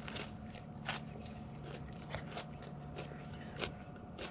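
A person chewing a mouthful of sandwich stuffed with crunchy hot Cheetos, with quiet, irregular crunches and mouth sounds.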